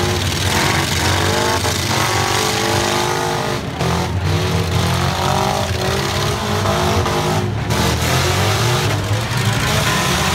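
Several four-cylinder demolition derby cars revving their engines, pitch rising and falling as they drive and ram, with a few bangs of collisions.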